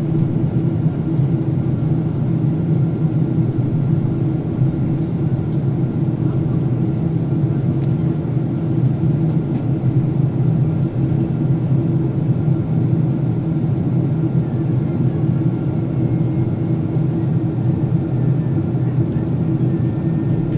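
Steady cabin noise inside a Boeing 767-400ER in flight: an even rush of airflow over the fuselage with a low engine drone and a faint steady whine above it.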